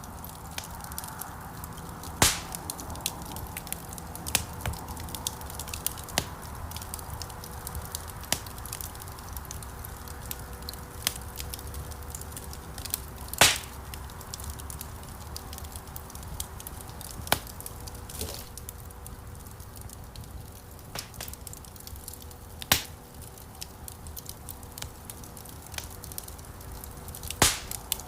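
Wood fire in a stone fireplace burning with a low steady rumble and hiss, dotted with small crackles and occasional loud sharp pops of the logs, the loudest about 2, 13 and 23 seconds in and near the end.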